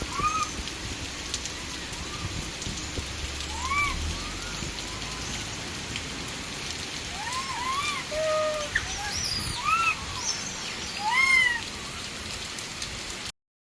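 Heavy rain pouring down in a steady hiss, with many short calls that rise and fall in pitch over it, clustered near the start and from about seven seconds in. The sound cuts off suddenly near the end.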